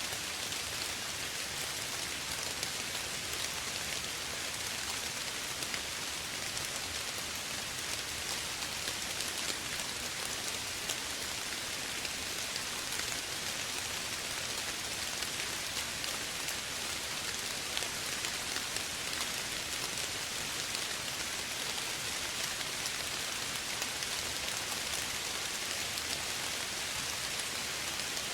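Steady light rain falling, a dense patter of drops on a surface.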